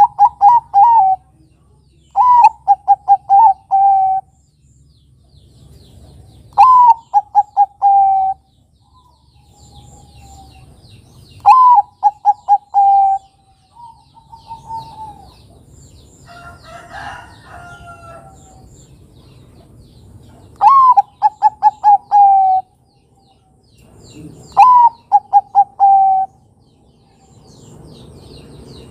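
Zebra doves (Bangkok perkutut) cooing in repeated song phrases, each a sharp rising opening note followed by a quick run of five or six short falling coos, with pauses of a few seconds between phrases. A rougher, different call sounds briefly past the middle.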